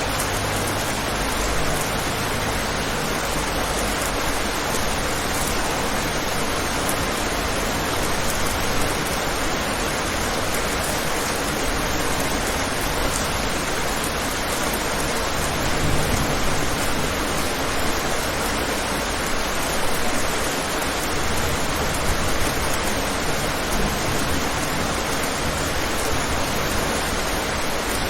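Steady, continuous rain: an even hiss of rainfall with a low rumble beneath, no distinct drops standing out.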